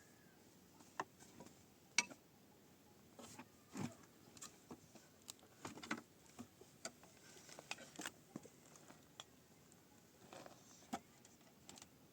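Faint, irregular light clicks and knocks, a dozen or so spread over several seconds, with a sharper click about two seconds in.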